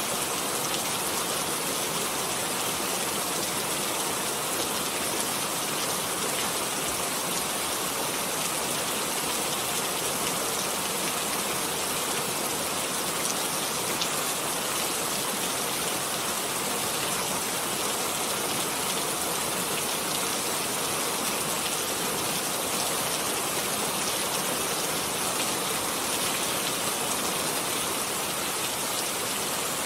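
Steady rain falling, a dense, even hiss of many drops on surfaces.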